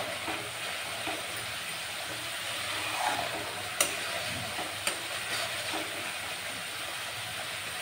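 Onion-tomato masala sizzling in hot mustard oil in an iron kadai as it is stirred with a metal spatula, a steady hiss. Two sharp clicks of the spatula against the pan come around the middle. The masala is being fried until the oil separates from it.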